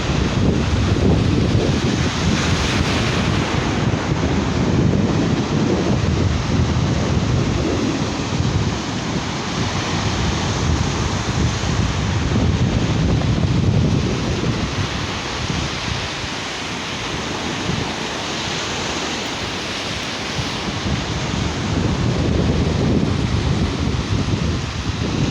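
Sea surf washing onto a beach, a steady wash that swells and eases over several seconds, with wind buffeting the microphone.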